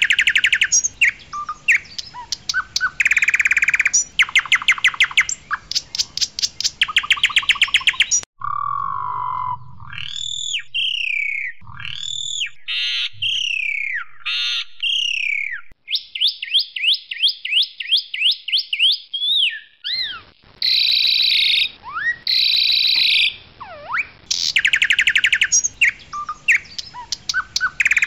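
Pied myna (white jalak suren) singing: loud, fast dry rattling trills for the first several seconds, then clear whistles and slurred rising and falling notes with a quick run of clicks, and then rattling trills again.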